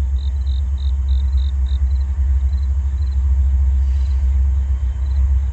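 Diesel freight locomotives approaching from a distance, a steady low rumble. An insect chirps about three times a second over it, fading out after about two seconds.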